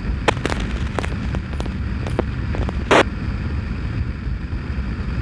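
Steady low rumble of wind buffeting the microphone and engine noise on a moving motorcycle, with a handful of sharp clicks and pops, the strongest about three seconds in.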